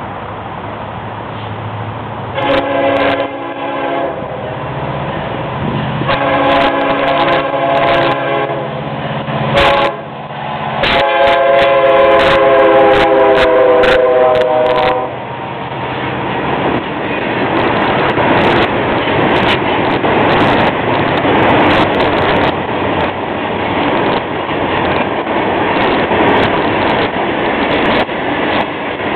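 A Florida East Coast freight train's diesel locomotives sound a multi-tone air horn in the grade-crossing pattern of long, long, short, long. Loaded hopper cars then roll past with a steady rumble and wheels clicking over the rail joints.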